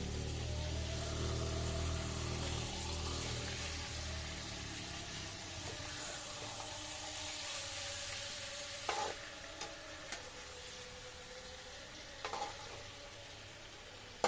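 Food sizzling in hot oil in a pan, the hiss slowly dying down, with a few short clinks of a utensil in the second half.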